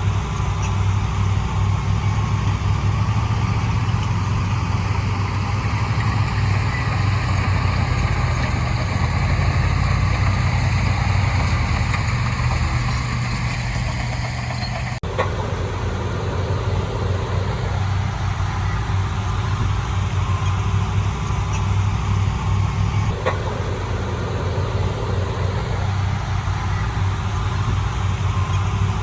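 Heavy diesel engine of earthmoving equipment running steadily under work, with an abrupt break about halfway through where the sound jumps to another shot.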